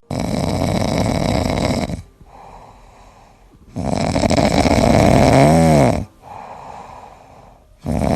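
Loud snoring: long rasping breaths about every four seconds, with quieter breaths between them.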